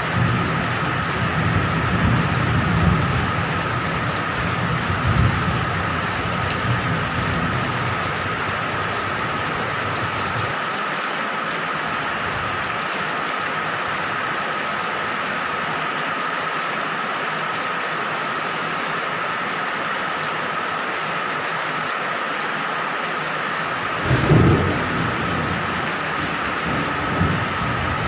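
Steady rain, with low rolling rumbles of thunder through the first ten seconds and again briefly near the end.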